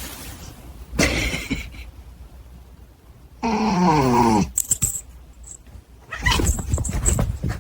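A pet animal vocalising, with one long cry that falls steeply in pitch about halfway through, amid scuffling and rustling noises.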